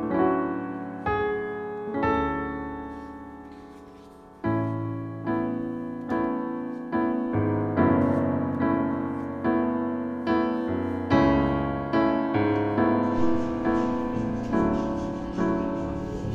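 Background piano music: a slow, gentle melody of single struck notes that ring out and fade, with one long held note dying away before a steady, even run of notes resumes.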